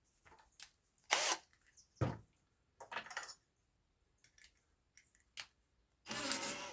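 Hand tools and small hardware handled on a workbench: a handful of short, separate clicks and scrapes, the longest near the end.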